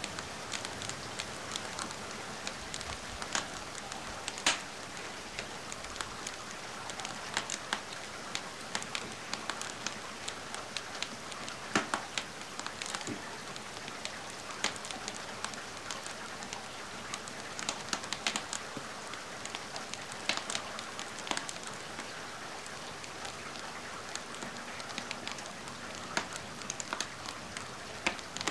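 Steady hiss of rain together with a crackling wood fire, whose sharp pops come at irregular moments, a few of them louder than the rest.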